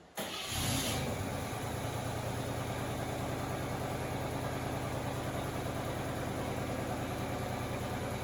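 The 1954 Corvette's engine catching and settling into a steady idle.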